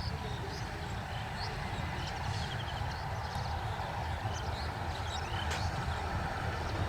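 Low steady rumble that slowly grows louder, with small birds chirping over it, including a short trill.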